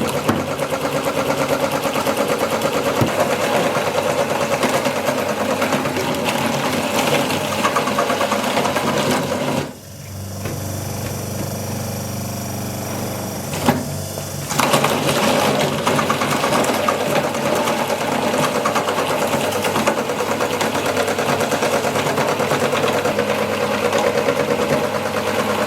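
Electric meat grinder running and grinding chicken, a dense fast rattling motor noise. Near the middle it drops for about four seconds to a steadier, lower hum before the grinding noise returns.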